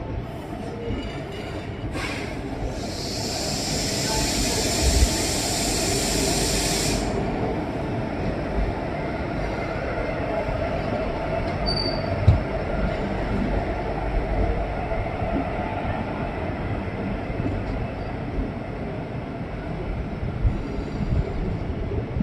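Maurya Express passenger train running on the rails, with a steady rumble of wheels and coaches. About three seconds in, a high hissing sound comes in and lasts about four seconds.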